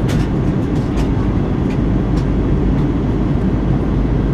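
Airbus A319 cabin noise in flight: a steady, loud low rumble of the engines and airflow, with a few faint clicks.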